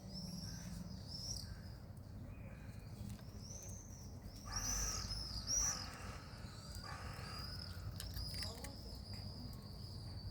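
Outdoor ambience of birds chirping repeatedly over a steady high insect drone, with a short louder rustling noise near the middle.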